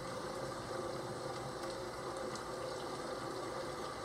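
Steady rain ambience: an even hiss of falling rain with no thunder clap.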